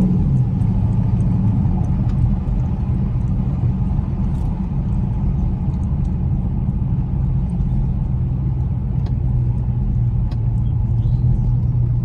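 Dodge Charger SRT8's V8 engine running steadily at low revs with a deep, even rumble.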